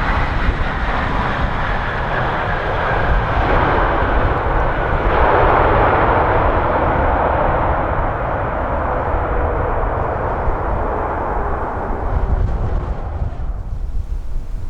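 Airliner's engines going past on its landing approach. The rush builds to a peak partway through and then fades near the end, with a faint whine that falls in pitch as it passes. Gusty wind buffets the microphone throughout.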